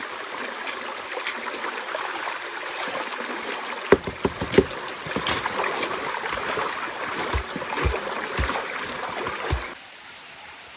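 Steady rushing water noise, with a series of sharp knocks and low thumps from about four seconds in; the water noise drops away suddenly near the end.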